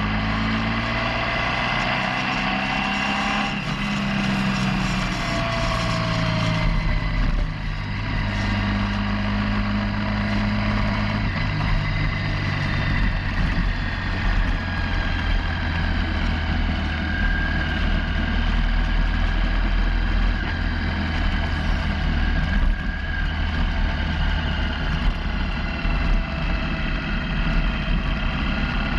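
Motorcycle engine running on the move. Its pitch rises and falls with the throttle and gear changes for the first dozen seconds, then holds steadier, over a constant rush of noise.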